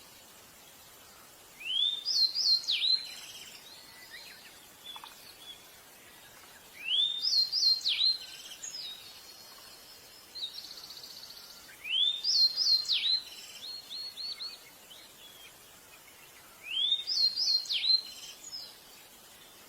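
Pied bushchat singing: four short whistled song phrases about five seconds apart, each a rising whistle followed by a few quick high notes sweeping downward, with softer twittering between the phrases.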